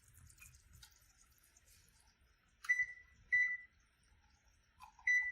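Three short electronic beeps from a kitchen appliance's keypad, typical of a timer being set, the last near the end.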